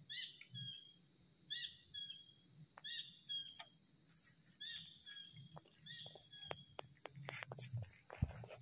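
A bird calling over and over, each call an arched note followed by a shorter falling one, repeated about every second and stopping about six seconds in, over a steady high-pitched insect buzz. Near the end come scattered sharp clicks and a low knock of handling as a hand grips the branch.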